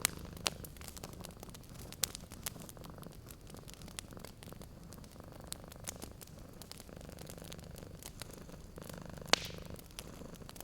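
A cat purring steadily in a low, pulsing rumble. Sharp crackles and pops from a wood fire are scattered over it, the loudest about nine seconds in.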